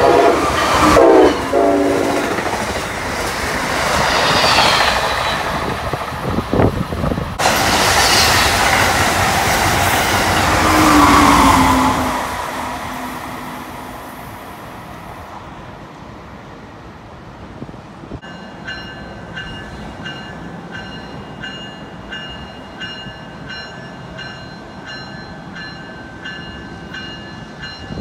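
An Amtrak electric train sounds its horn, then passes at speed, loud with rushing wheel and air noise and a falling pitch, and fades away. In the last ten seconds a locomotive bell rings about twice a second.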